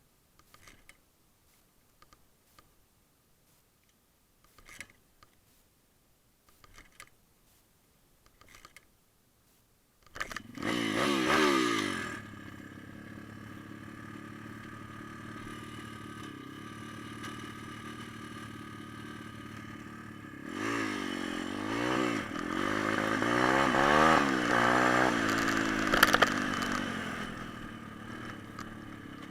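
Faint clicks and handling noises, then a small single-cylinder four-stroke pit bike engine starts about a third of the way in with a quick rev. It idles steadily, is then revved up and down repeatedly, and eases back near the end.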